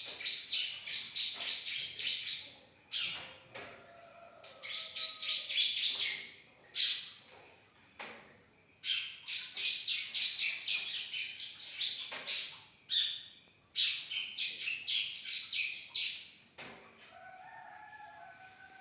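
Young bar-winged prinia (ciblek) singing: rapid runs of high chirping notes in phrases of two to four seconds, with short breaks between them. Fainter, lower whistled notes come near the end.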